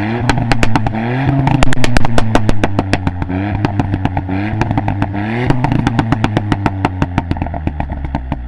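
Mk8 Ford Fiesta ST's 1.5-litre three-cylinder turbo engine on an aftermarket exhaust, blipped up in revs several times, loudest about two seconds in, with a rapid string of sharp cracks and pops throughout. It cuts off suddenly at the end.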